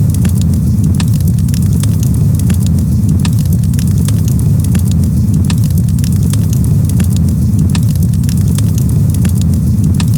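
Campfire crackling: frequent sharp pops and snaps over a steady low rumble.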